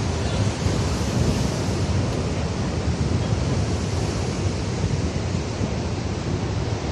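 Atlantic surf from a high, rough sea washing against the shore below the cliffs, a continuous heavy rush. Wind buffets the microphone.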